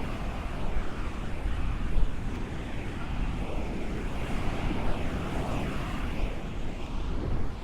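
Wind buffeting the microphone over a steady outdoor rumble.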